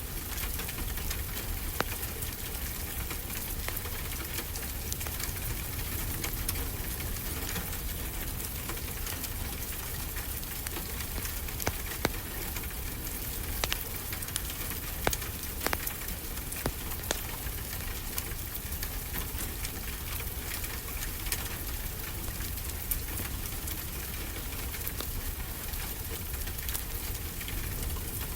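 Wood fire crackling in a fireplace, with scattered sharp pops, a few louder ones around the middle, over a steady low rumble and hiss of ocean waves.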